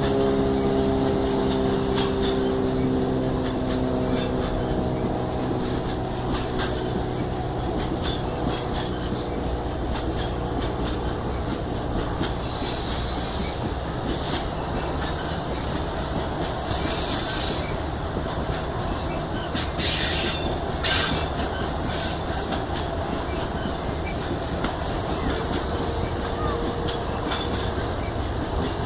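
Freight train wagons rolling past, wheels clicking over rail joints with a few brief high squeals in the middle. At the start a diesel locomotive's engine hum fades away.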